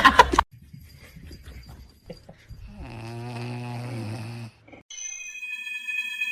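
A single low, drawn-out snore lasting about a second and a half, with faint clicks before it and steady high tones near the end.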